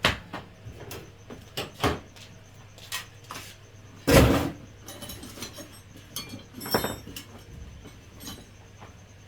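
Intermittent knocks and clatter of parts being handled while a rice milling machine is worked on, with one longer, louder scrape about four seconds in.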